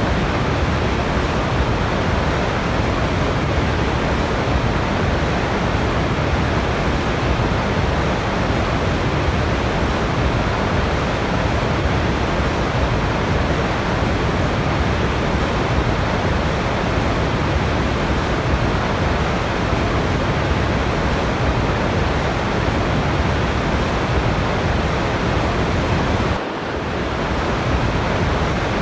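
Steady rush of a waterfall, an even, dense hiss of water. There is a brief dip in level near the end.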